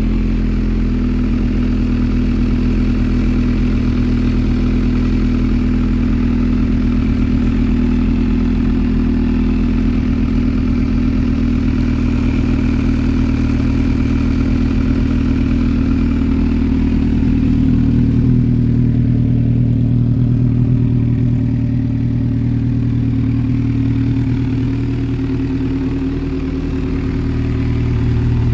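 MV Agusta F4 1000S's inline-four engine idling steadily through an aftermarket BODIS exhaust, with no revving. Its low tone shifts slightly about two-thirds of the way through.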